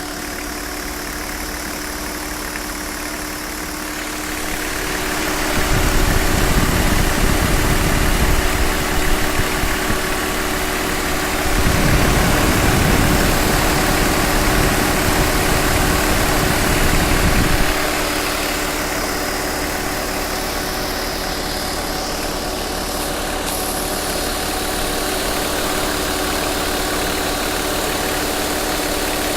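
BMW 525tds turbodiesel straight-six idling with a steady hum while its electric radiator cooling fan runs. A louder rushing rumble builds about five seconds in, eases briefly near halfway, and drops back about two-thirds of the way through, leaving the steady idle.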